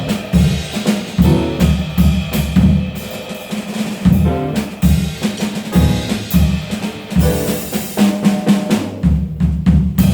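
Jazz trio of piano, bass and drum kit playing, with the drum kit most prominent: bass drum, snare and rimshot hits over short pitched phrases.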